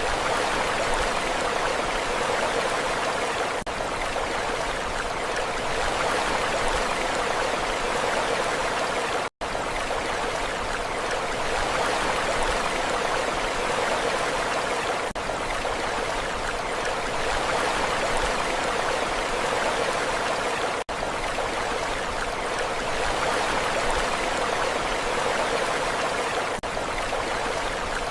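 Steady rushing water with no rise and fall of waves, broken once by a split-second dropout about nine seconds in.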